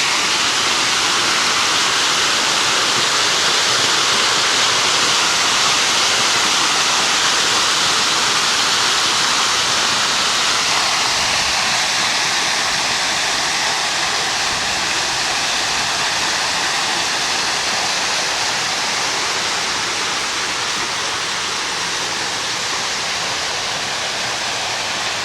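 Water pouring from a large artificial boulder waterfall into a swimming pool: a steady rushing splash that grows slightly fainter in the second half.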